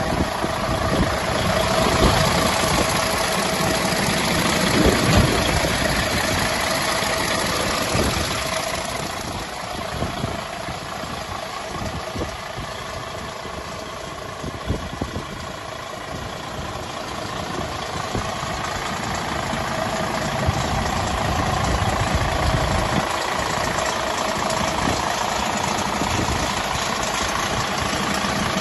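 Diesel engine of a Mercedes-Benz Actros 3235 8x4 tipper truck idling steadily, quieter for several seconds in the middle and louder again toward the end.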